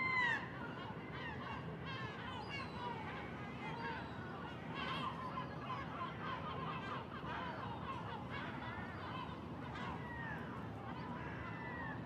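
Bird calls: a run of short notes, each rising then falling in pitch, loudest at the very start and then fainter and scattered, over steady background noise.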